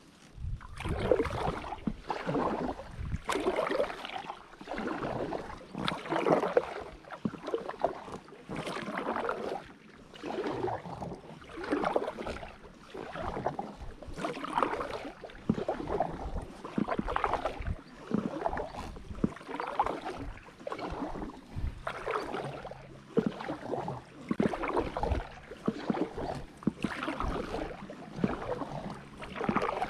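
Kayak paddle strokes on an inflatable drop-stitch kayak: a steady rhythm of blade splashes and dripping water, about one stroke a second. A faint low steady hum joins about two-thirds of the way in.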